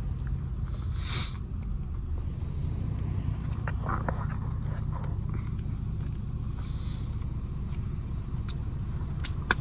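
Straight-piped Mercedes-Benz C350's 3.5-litre V6 exhaust running with a steady low drone, heard from inside the cabin. A few faint clicks come near the end.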